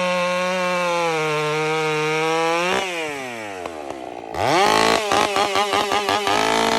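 Two-stroke chainsaw held at high revs, dropping back toward idle about three seconds in. It then revs up again with a quick wavering in pitch before easing off at the end.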